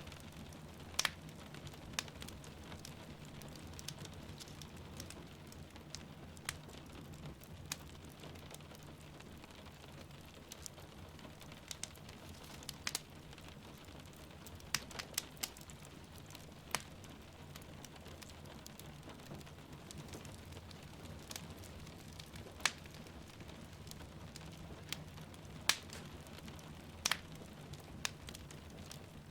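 Wood fire crackling in a fireplace, with sharp pops at irregular intervals every second or two, over a steady hiss of rain falling outside.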